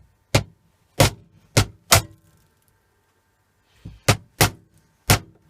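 Seven sharp, separate blows struck on the plastic salt and water-softener unit of a dishwasher to break it open: four in quick succession, a pause of about two seconds, then three more.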